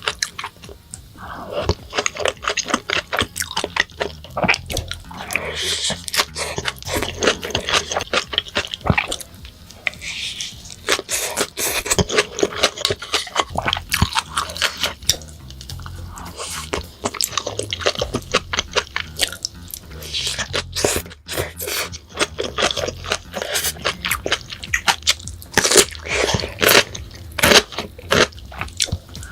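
Close-miked eating: a person taking big bites and chewing, with crunching and wet, sticky mouth sounds in quick, irregular clicks and crackles, pausing briefly now and then.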